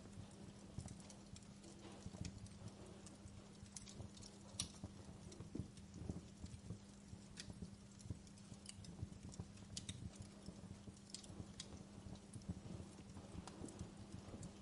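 Wood fire burning in a fireplace: irregular crackles and sharp pops from the burning firewood over a soft, low flame rumble, with a faint steady hum beneath.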